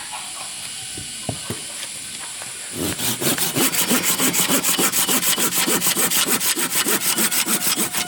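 Hand saw cutting wood in fast, even back-and-forth strokes, starting about three seconds in after a few light knocks.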